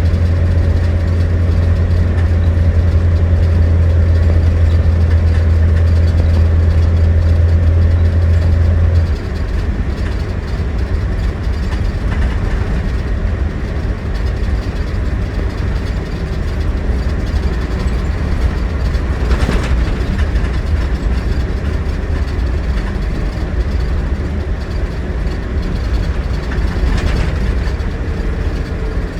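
Scania coach's 9.3-litre DC09 five-cylinder diesel engine running under way, a loud steady low drone. It drops in level about nine seconds in and carries on more evenly, with a couple of brief rattles later.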